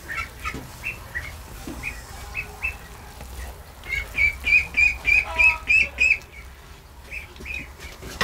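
Birds chirping: short, high calls come every half second or so, then a quick run of about five calls a second for around two seconds midway through.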